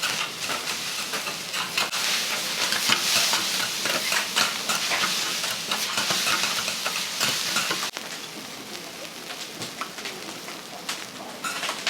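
Food sizzling on a teppan griddle while metal spatulas scrape and clack against the iron plate in quick strokes. The sizzle drops quieter about eight seconds in.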